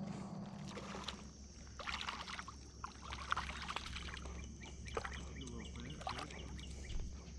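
Creek water splashing and sloshing in irregular small bursts, as from wading or handling a fish in shallow water, over a steady low rumble.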